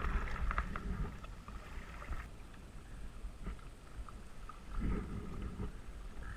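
Kayak paddle splashing and water lapping around a small kayak, with scattered drips and clicks, under a steady low rumble from the helmet-mounted camera. A louder swell of water and rumble comes about five seconds in.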